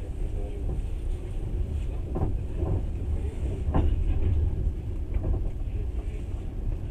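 Train running along the track: a steady low rumble, with a few short knocks from the wheels and carriage.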